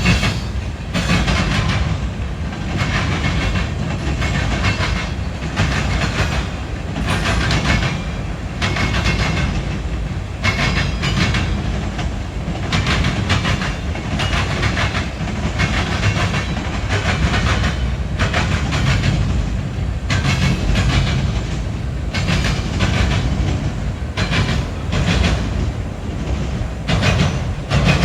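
Freight train rolling past: a steady rumble of the cars with the clickety-clack of wheels over rail joints, continuing throughout.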